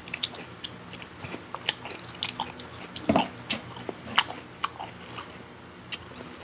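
A person eating: chewing and biting food, with short sharp mouth clicks and smacks scattered throughout.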